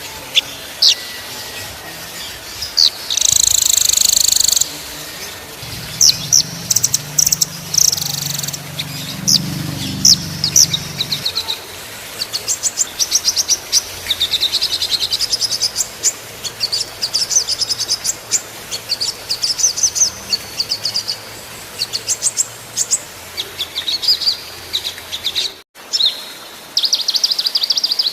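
Small songbirds singing: high chirps and fast trills, with stretches of rapidly repeated notes. Near the end the sound cuts out for a moment.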